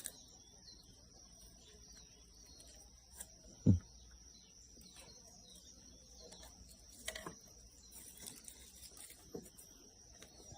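Quiet background with a faint steady high whine, scattered soft clicks and rustles, and one dull thump a little under four seconds in.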